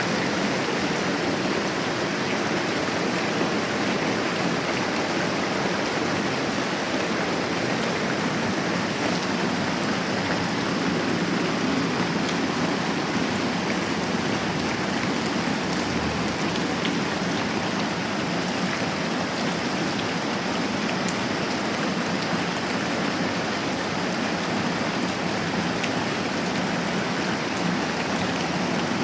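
Steady moderate rain falling, an even unbroken hiss with a few faint scattered ticks.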